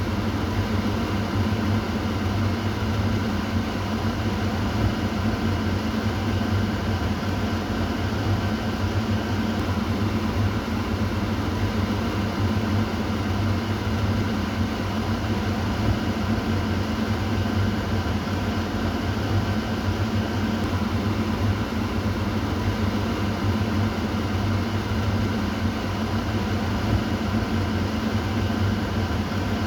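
Kitchen exhaust fan running steadily: an even whoosh of moving air over a constant low motor hum.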